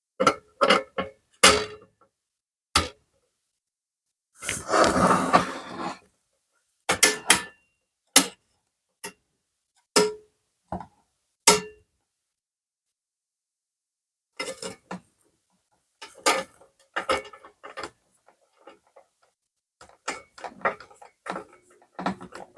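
Wooden nesting-box parts and screws being handled during assembly: scattered knocks and clicks, with one rough noise lasting about a second and a half some four seconds in.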